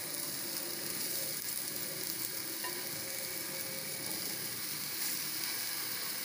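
Steady sizzle of halved nendran bananas (plantains) frying gently in ghee in a pan, softening before they are filled and rolled.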